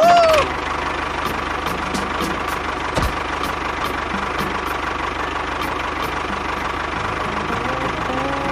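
Small engine of a mini tractor running steadily, with a constant hum and a light tick about three times a second. It opens with the tail of a short falling tone.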